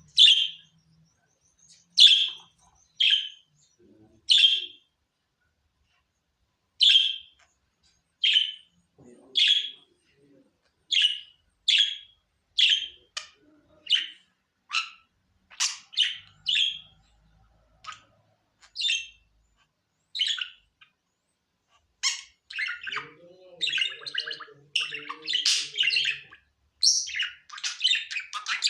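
Budgerigar chirping: short, high single calls about one a second with some pauses, turning in the last quarter into faster, continuous warbling chatter with some lower notes mixed in.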